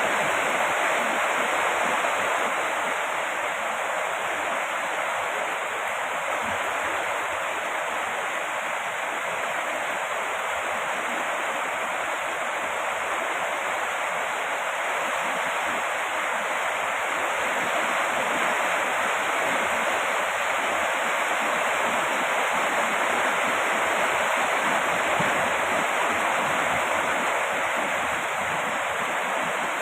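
Heavy rain falling steadily: an even, unbroken hiss with no single drops or other sounds standing out.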